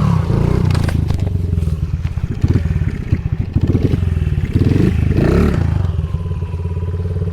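Honda CRF50's small single-cylinder four-stroke engine running and revving, heard from the rider's microphone, with a run of knocks and clatter in the middle as the bike goes over the wall jump, then settling to a steadier note near the end.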